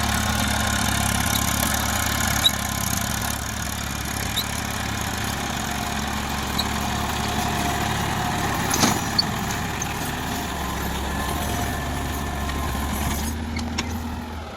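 Eicher 480 tractor's diesel engine running steadily, a continuous low hum.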